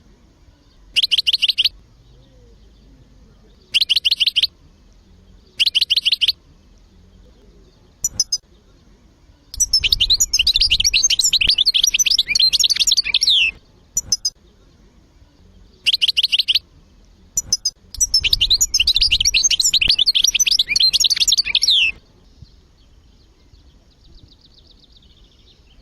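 Songbirds singing: short trilled bursts recurring every few seconds, and two longer rapid twittering phrases of about four seconds each.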